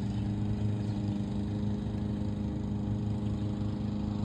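A steady low machine hum at a constant pitch, unchanging throughout.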